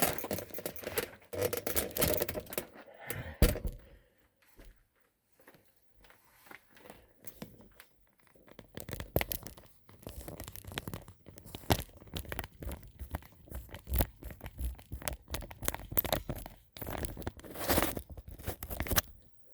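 Irregular rustling and scraping right against the phone's microphone, in uneven bursts with a quieter gap a few seconds in: handling or rubbing noise.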